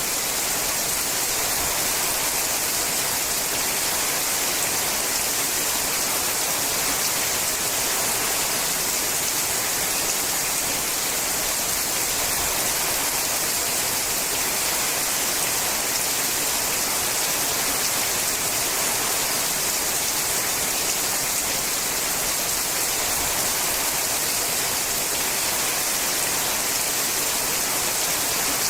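Steady, heavy rain falling on a sheet-metal roof: an even hiss of countless drops with no let-up.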